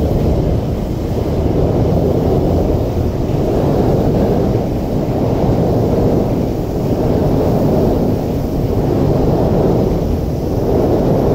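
Loud low rumble of trains at an elevated station, with wind buffeting the microphone; the noise swells and fades every couple of seconds, with no motor whine or announcement standing out.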